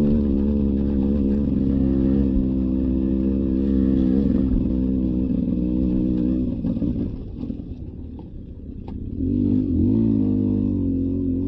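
Beta 300 RR two-stroke dirt bike engine running under way, its pitch wavering with the throttle; it drops off for a couple of seconds about seven seconds in, then picks back up.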